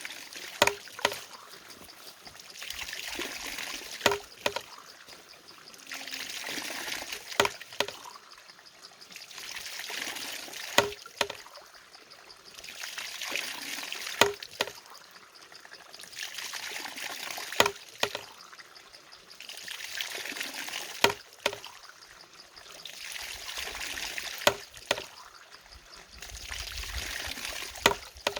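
A water-driven mechanism working in a steady cycle: water pours and trickles, building up and fading, then a sharp knock, often doubled, sounds roughly every three and a half seconds.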